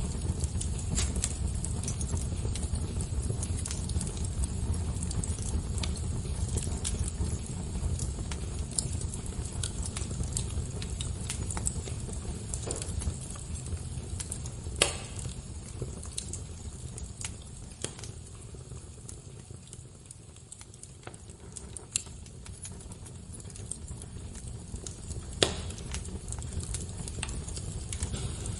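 Crackling fire: a steady low rush of flame with frequent small snaps and three louder pops, about halfway, about three-quarters of the way in, and near the end.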